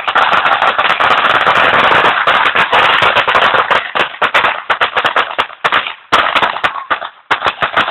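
A string of firecrackers going off in rapid succession: a dense, nearly continuous crackle for the first few seconds, thinning to scattered pops with short gaps.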